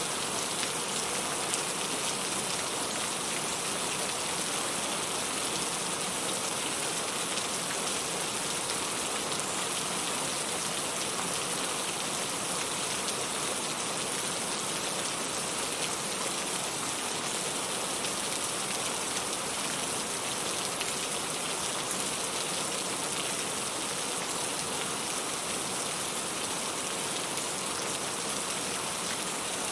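Steady rain falling, an even hiss that holds at one level without breaks or pauses.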